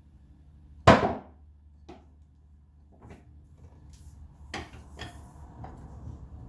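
A loud sharp knock about a second in, then a few lighter clicks and taps: tools and hard plastic parts of a projector being knocked and pried during a teardown.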